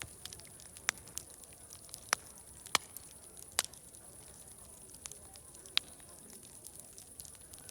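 Wood fire crackling, with sharp irregular pops standing out over a steady high hiss and a faint murmur of distant crowd chatter.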